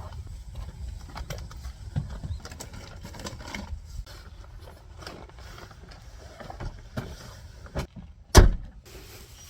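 Scattered small clicks and handling noises, then a single loud, heavy thud near the end: a car door being shut.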